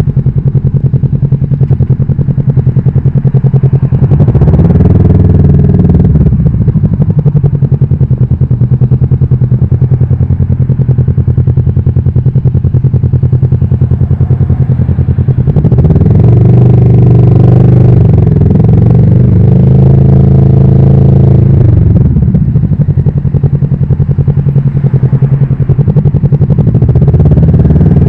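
Kawasaki Vulcan S 649 cc parallel-twin engine running under way on the motorcycle, loud and pulsing. The revs rise and fall around four seconds in and again for a longer stretch in the middle, with changes in pitch there.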